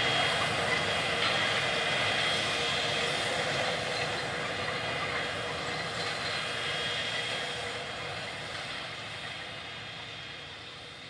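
Large diesel farm machine running steadily with a constant whine, slowly fading away.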